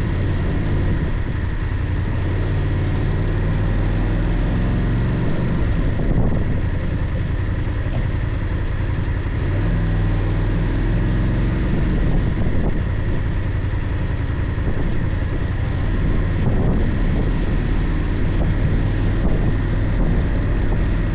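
BMW F 800 GS parallel-twin engine running while the bike is ridden, heard over a steady haze of wind and road noise. The engine note shifts with the throttle a few times, around a quarter of the way in and again near the middle.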